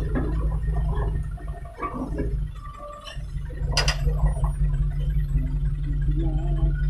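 Low, steady rumble of a single-axle truck's engine hauling a load of sand. It eases briefly about two and a half seconds in, and a single sharp click comes just before four seconds.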